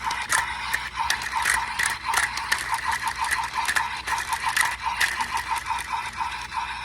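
Plastic spinning part of a Kamen Rider Gavv Blizzard Sorbet toy clicking as it is turned, a quick run of ratchet-like clicks, several a second.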